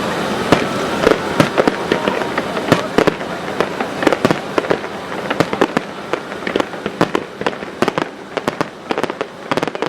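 Aerial fireworks bursting in rapid succession: a dense run of sharp bangs and crackles, easing a little in loudness toward the end.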